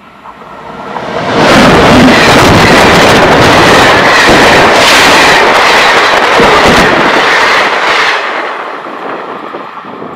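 Passenger train passing close by at speed: a loud rush of wheels and air with repeated clatter of the wheels on the rails. It builds up over the first second and a half, holds, then fades over the last two seconds as the train pulls away.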